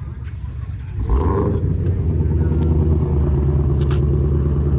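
A car engine starting up about a second in, flaring briefly and then settling into a steady, low idle.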